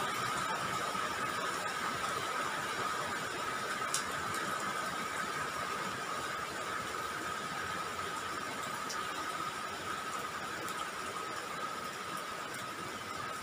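Steady rain hiss with a thin, steady high-pitched drone running through it, and one sharp click about four seconds in.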